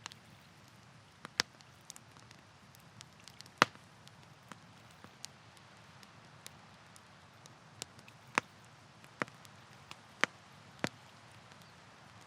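Campfire crackling: burning wood snapping and popping in irregular sharp cracks over a steady low hiss, the loudest crack a few seconds in.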